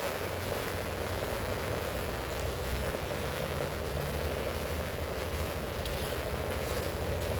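Heavy rain falling, a steady hiss, with a low steady hum underneath.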